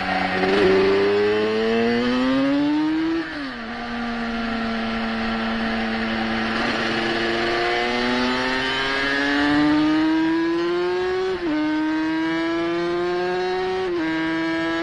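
350 cc racing motorcycle engine revved hard on track, with wind rush on the onboard microphone. The revs climb, fall away about three seconds in, build again through the middle, and drop briefly at two quick gear changes near the end.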